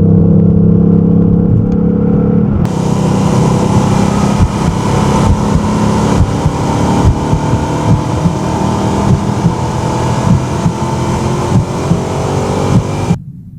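Ford Mustang Bullitt's V8 engine under way, holding a steady note at first and then accelerating, its pitch rising gradually. The sound cuts off suddenly shortly before the end.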